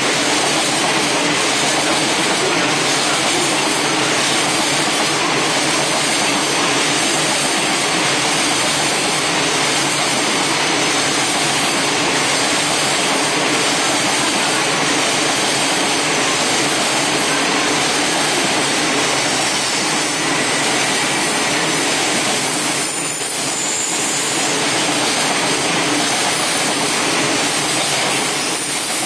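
Container freight train's flat wagons rolling past at speed: a loud, steady noise of steel wheels running on the rails, easing briefly about two-thirds of the way through.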